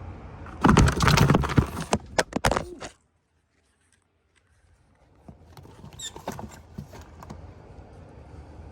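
Loud rustling and a quick run of clattering knocks for about two seconds that cut off suddenly, then, after a gap, a few fainter clicks and taps.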